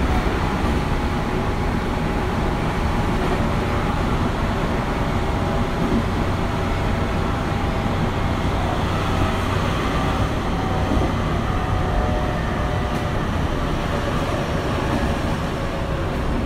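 Tobu 9050 series electric train running at speed, heard from inside the car: a steady rumble of wheels on the rails. Faint steady whining tones from the Toyo GTO-VVVF traction equipment sit above the rumble.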